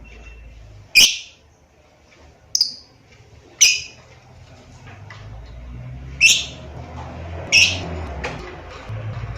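Lovebird giving five short, sharp, high-pitched chirps at uneven intervals, over a faint low hum.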